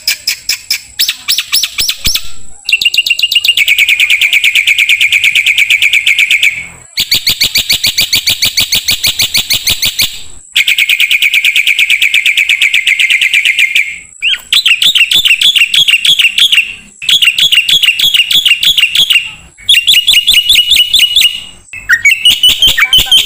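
A jalak (myna/starling) singing over and over in phrases of very rapid, rattling chatter. Each phrase lasts a few seconds, with short pauses between them.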